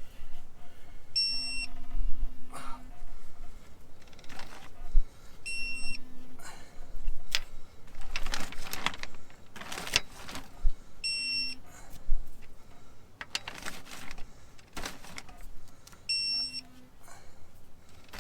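Four short electronic beeps at uneven intervals, the longest about a second and a half near the start, with wrench work on engine bolts between them: ratcheting and metal scraping as overtight bolts are worked loose.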